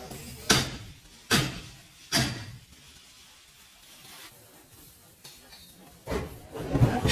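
Three sharp knocks about a second apart, then a louder run of knocking and clattering near the end.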